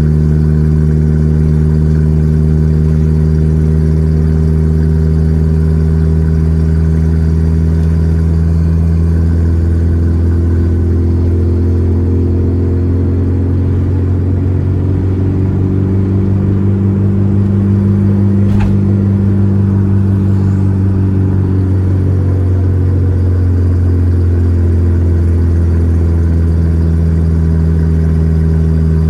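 Volkswagen Gol G4 Rallye's four-cylinder engine running steadily while driving. Its note dips a little and recovers about halfway through, with one brief click.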